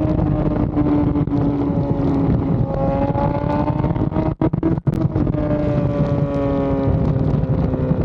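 BMW S1000RR inline-four running at high revs, its pitch climbing slowly and then easing back down. Midway the sound cuts out twice very briefly, followed by a sharp click.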